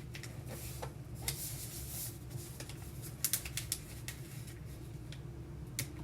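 A sheet of paper being folded and creased by hand: rustling and crinkling, with a few sharp crackles a little past the middle.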